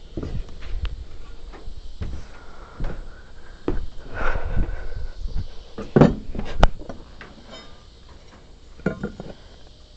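Irregular wooden knocks and thuds as rough timber pieces are handled and fitted together, with a scraping creak of wood rubbing on wood around four seconds in and two sharper strikes about six seconds in.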